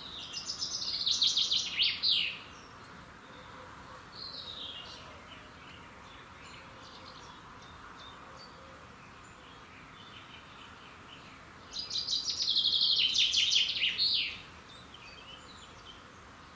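A songbird singing a fast trilled song phrase about two and a half seconds long, twice, roughly ten seconds apart, each phrase ending in a few quick falling notes. A fainter short call comes about four seconds in, over a steady faint background hiss.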